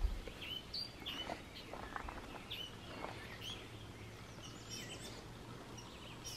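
Faint outdoor background with small birds chirping now and then: short, high chirps about every second.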